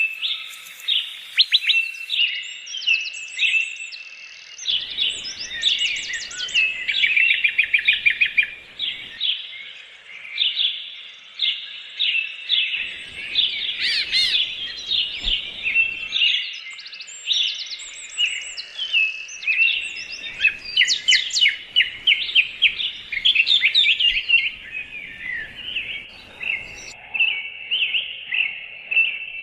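Birds chirping and twittering without pause, in quick chirps and rapid trills.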